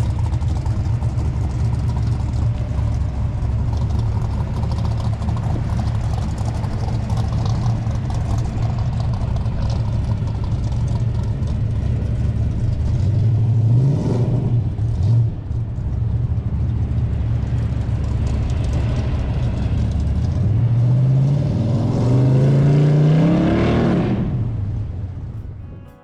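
A car engine rumbling, with a brief rev about halfway through, then accelerating in two rising steps like gear changes and fading away near the end.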